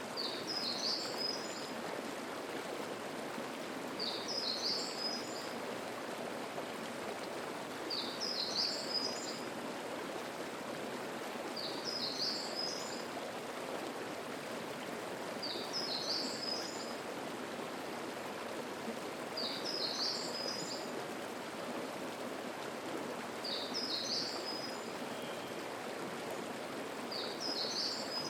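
Mountain stream flowing steadily, with a songbird repeating the same short, high phrase about every four seconds.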